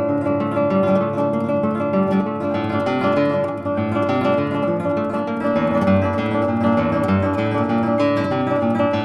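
Acoustic guitar music, plucked and strummed, playing steadily as a soundtrack.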